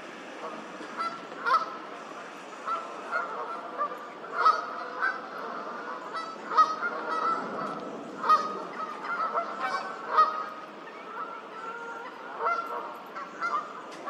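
Geese honking, a string of short calls every second or so throughout.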